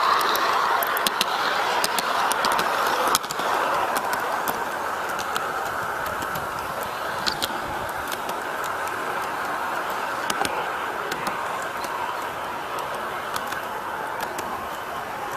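Garden-scale model train running along its track: a steady whir with scattered sharp clicks.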